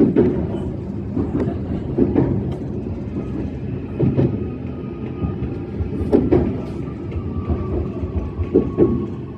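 E131-series electric train running on the line, its wheels clacking over rail joints about every two seconds above a steady low rumble. A faint steady whine joins in about seven seconds in.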